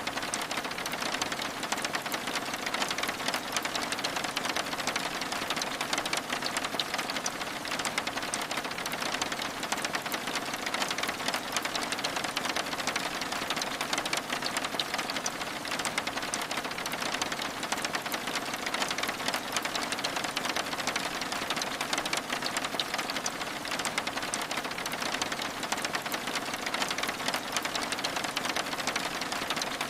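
Steady rain pattering on window glass: a dense, even stream of small drop taps that neither builds nor fades.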